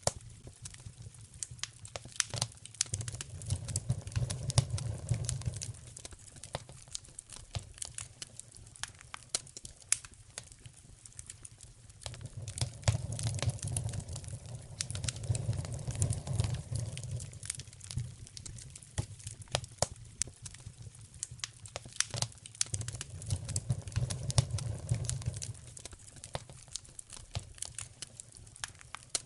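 Wood fire burning in a fireplace, crackling steadily with many sharp pops and snaps. A low rumble swells up and fades away three times underneath the crackling.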